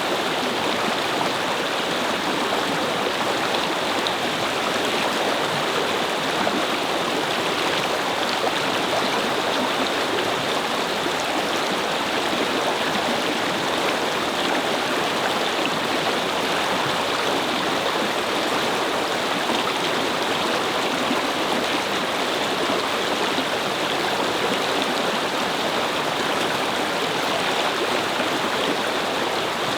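A brook babbling over stones, its water flowing in a steady, even rush.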